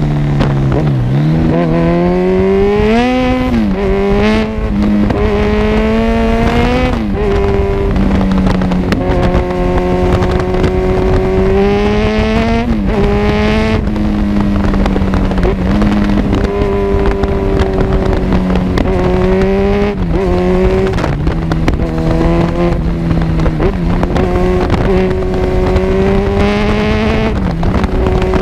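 Kawasaki Z1000's inline-four engine through an Arrow full-system exhaust, running under way. The engine note mostly holds steady, with repeated short drops and rises in pitch as the throttle is closed and reopened.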